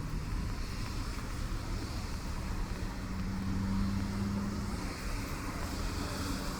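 City street ambience in the rain: traffic on wet roads with a steady noise of tyres. A vehicle's engine hum swells from about two seconds in and fades near five seconds.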